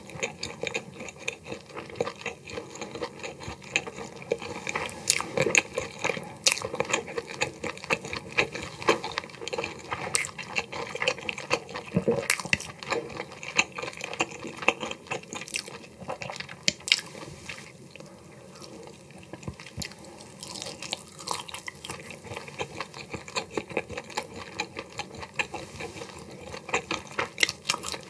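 Close-miked chewing of cooked shellfish: wet smacking and irregular crunchy clicks, with a brief quieter stretch a little past the middle.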